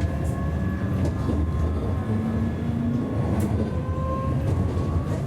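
Siemens Avenio tram running along the track: a steady low rumble with a few thin, steady whining tones and faint clicks.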